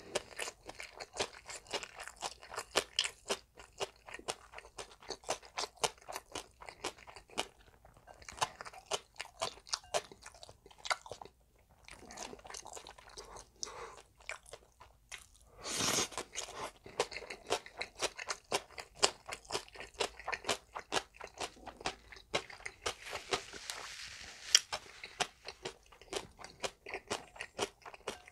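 Close-miked eating of bibim-guksu, spicy mixed noodles: steady chewing with rapid crunching clicks, several a second.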